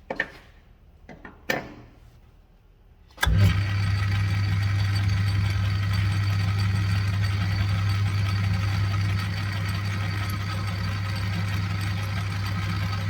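A couple of sharp metallic clicks, then about three seconds in the metal lathe's motor switches on and runs with a steady, loud hum, ready for facing cuts on an aluminium part.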